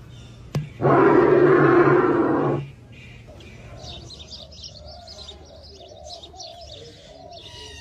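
A bird calling. A sharp click is followed by a loud call of about two seconds, then rapid, fainter high chirps and twittering.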